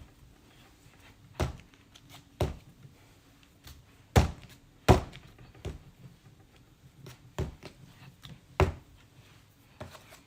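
A lump of clay being thumped down onto a canvas-covered wooden wedging board: several heavy thuds at uneven intervals, with a few lighter knocks between.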